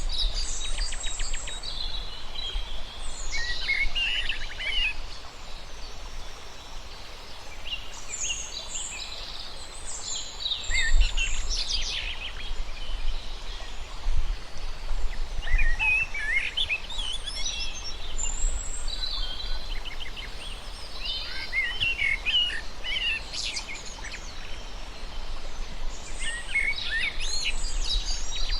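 Songbirds singing and chirping in quick, high trilled phrases that come in bursts every few seconds, over a steady low rumble.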